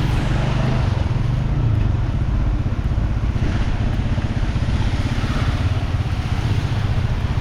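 A vehicle driving on a wet, flooded road: a steady low engine drone under a continuous hiss of tyres on water, with the hiss a little stronger in the middle.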